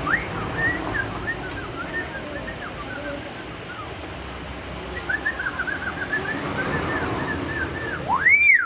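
Hill myna giving two runs of quick chirping notes. Near the end comes a loud whistle that swoops up and back down.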